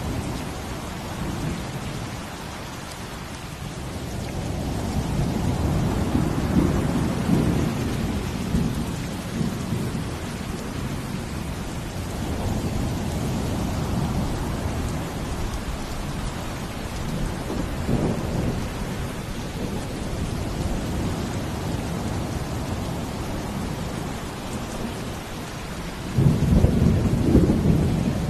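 Steady rain falling, under deep low rumbles that swell and fade, with a sudden louder rumble near the end.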